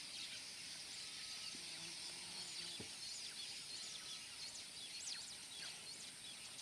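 Many quick, high bird chirps and whistles from several birds over a steady high insect drone, with a faint low call about a second and a half in.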